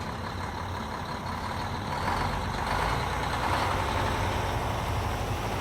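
Heavy vehicle engine running steadily at a demolition site, growing louder about two seconds in.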